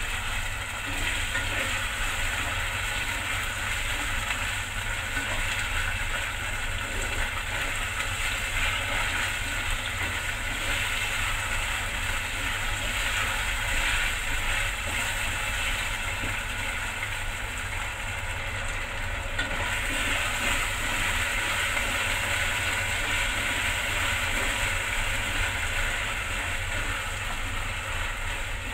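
Beef and salted vegetables stir-frying in a stainless steel pan, a steady sizzle as the pieces are turned with wooden chopsticks, over a steady low hum.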